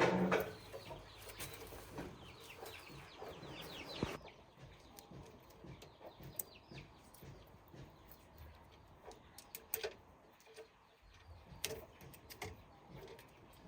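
Birds chirping for the first four seconds, then scattered light clicks and taps after an abrupt change in the background.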